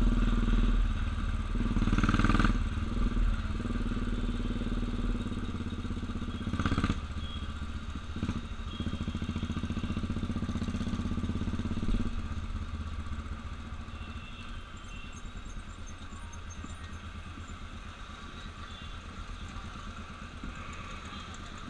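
Motorcycle engine running steadily, with brief clattering knocks about two and seven seconds in. It is louder for the first twelve seconds, then settles quieter.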